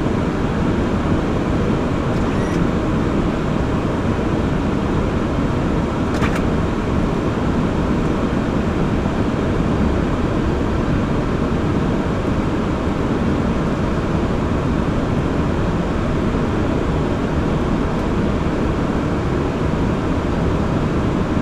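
Steady rush of airflow and engine noise inside the cockpit of a four-engine Airbus A340 on final approach with the landing gear down. A short click comes about six seconds in.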